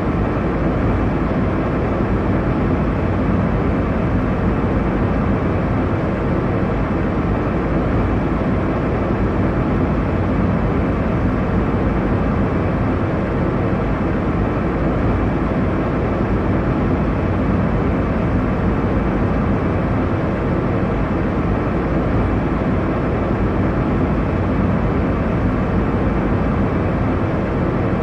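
Airliner cabin noise in cruise: a steady, even rumble and rush of engines and airflow heard from inside the cabin, with nothing high-pitched and no change.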